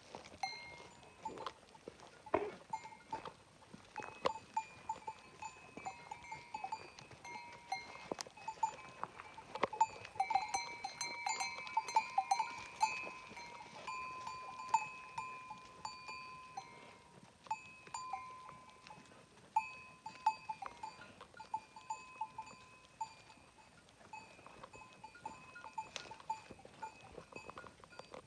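Neck bells on grazing livestock clinking and ringing irregularly as the animals move and feed, with scattered small clicks and knocks.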